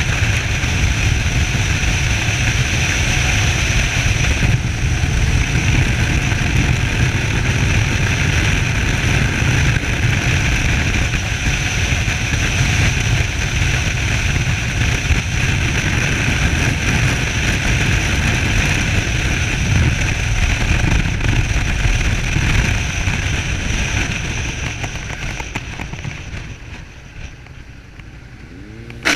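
Wind rush and the V-twin engine of a Suzuki SV650S motorcycle at riding speed, heard from a chest-mounted camera, with heavy low buffeting. The noise dies down over the last few seconds.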